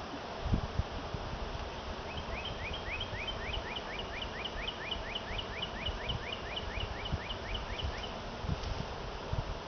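A songbird singing a long, even run of short rising notes, about four a second, starting about two seconds in and stopping near the end. A couple of low knocks come just after the start.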